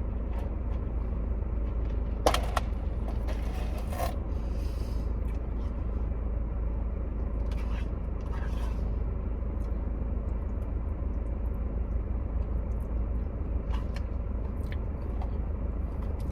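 Utensil scraping and clicking in a food container while eating mac and cheese. Short scrapes and clicks come in scattered groups, the clearest a few seconds in and again near the middle. A steady low hum runs underneath.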